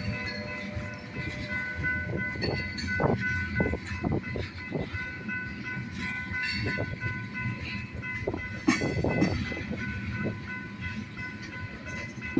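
A train passing close by, its cars rumbling with repeated knocks and clatter, and steady high ringing tones sounding throughout.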